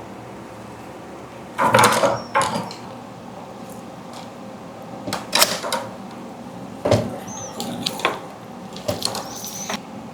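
Irregular clicks, knocks and light scrapes of small metal and plastic 3D printer parts being handled and fitted back together, with a few short high squeaks.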